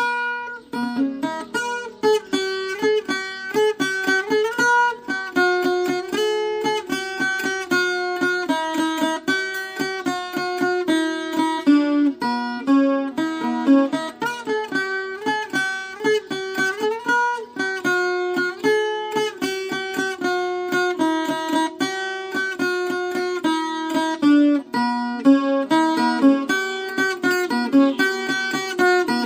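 Viola caipira, the Brazilian ten-string guitar, playing an instrumental melody: quick plucked notes over a low note left ringing.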